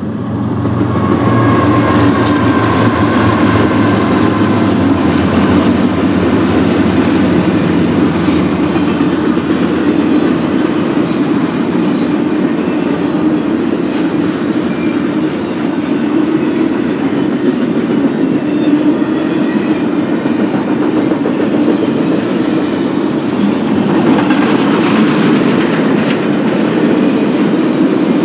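BNSF intermodal freight train rolling past with a steady, continuous noise of wheels on the rails.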